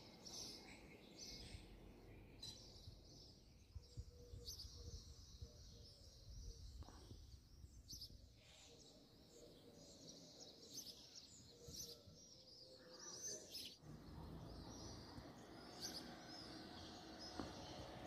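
Faint chirping of small birds, short scattered calls over low outdoor background noise that grows fuller about three quarters of the way through.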